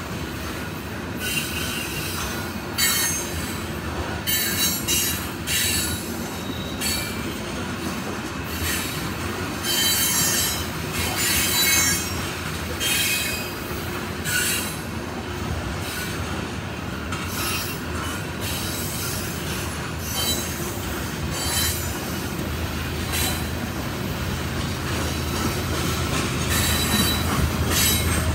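Freight train hopper cars rolling past, steel wheels squealing on and off in high-pitched tones over a steady rumble and clatter of wheels on the rails.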